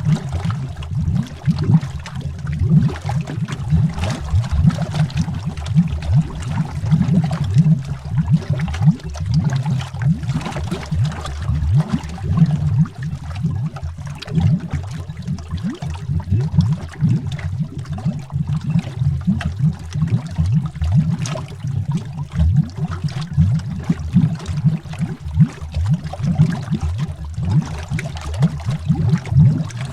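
Water bubbling heard underwater: a dense, steady low churn of many quick bubble pops and gurgles.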